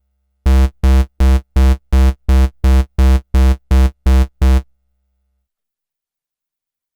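Roland Juno-106 analog synthesizer sounding the same short low note twelve times in an even pulse, about three a second, then stopping.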